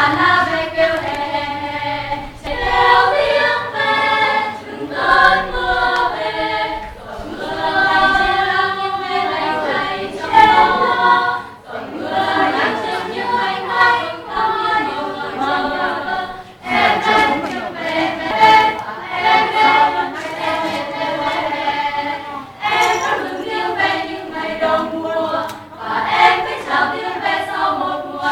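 A choir singing a song, many voices together carrying a melody in phrases a few seconds long.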